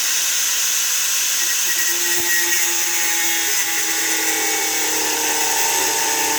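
Power tool cutting into deer antler, running steadily with a high whine and hiss.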